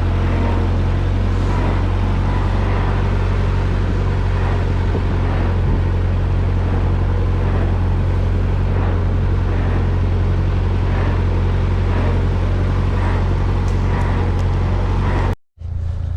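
A vehicle engine running steadily with a deep, even hum. It cuts off abruptly near the end, where a different, quieter sound takes over.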